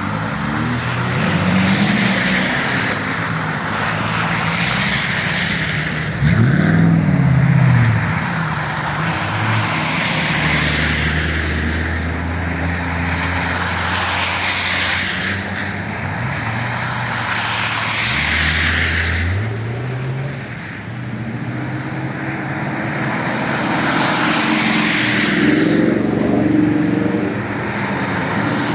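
Jeep engines running as the vehicles drive off-road, the revs rising and falling, with a sharp rev-up about six seconds in and another near two-thirds of the way through.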